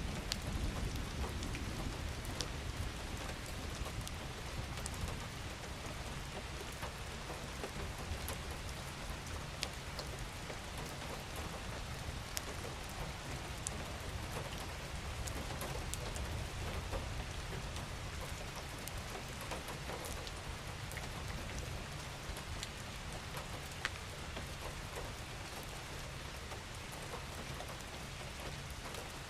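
Steady gentle rain falling, with scattered individual drops ticking sharply on a surface and a low steady rumble underneath.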